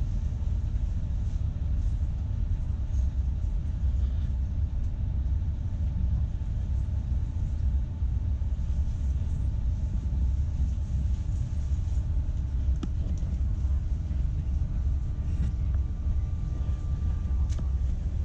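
Southeastern Class 395 Javelin electric train running, a steady low rumble heard from inside the carriage as it nears Ashford International. A faint steady high tone comes in about four seconds before the end and stops.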